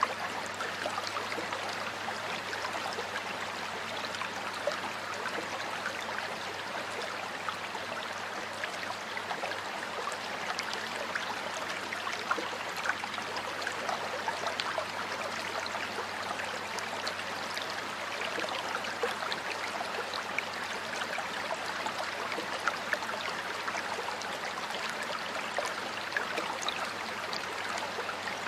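Flowing stream water: a steady rush with many small splashes and trickles throughout.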